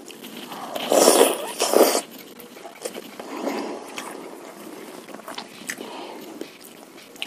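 Close-miked eating sounds of meatballs in spicy broth: two loud, rushing mouth sounds about one and two seconds in, then softer wet chewing with small clicks.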